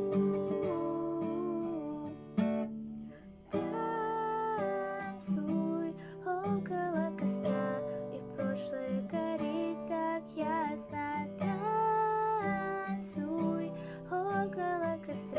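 Acoustic guitar strummed with a voice singing the melody over it. The playing drops off briefly about three seconds in, then resumes.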